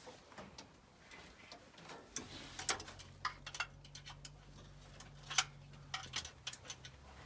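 Sharp clicks of a hand socket ratchet and metal tools in short irregular bursts as a bolt is worked. A low steady hum sounds from about two seconds in until about six seconds.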